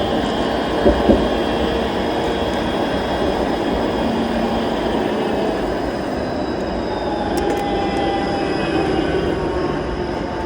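Streetcar running along its rails close ahead, a steady rolling rumble with thin high squealing tones from the wheels on the track. A couple of short clicks about a second in.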